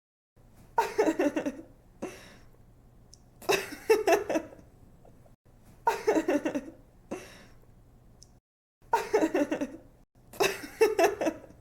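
A young woman laughing in five giggling bursts of quick pulses, each about a second long and repeating about every two and a half seconds.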